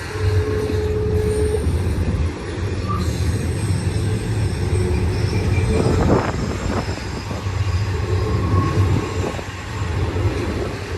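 Double-stack intermodal freight cars rolling past with a steady low rumble of wheels on rail. A steel wheel squeals as a steady tone in about the first second and a half.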